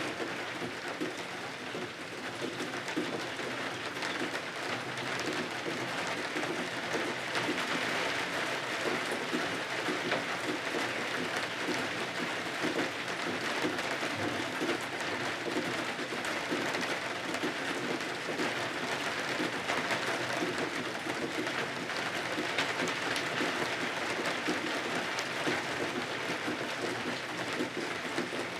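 Steady rain falling, a dense, even patter without let-up.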